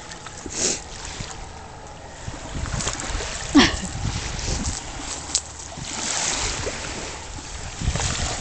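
Wind rumbling on the microphone over lapping water, with scattered knocks and a loud sharp knock about three and a half seconds in.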